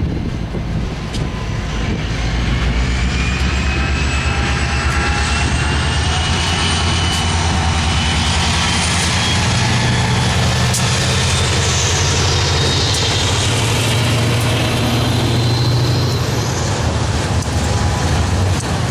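Train running past, a loud steady rumble with faint high whines that slowly rise in pitch.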